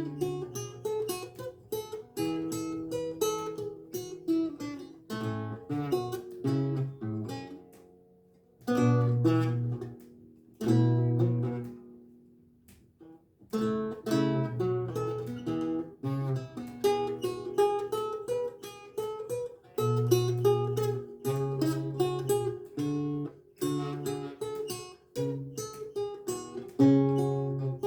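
Renaissance lute with gut strings played solo: plucked notes and chords in several voices, with two short breaks where the sound dies away, about eight and twelve seconds in.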